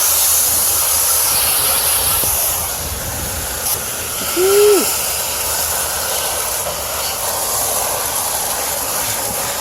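A steady hissing noise, strongest in the high range, with a brief low hum-like tone about four and a half seconds in.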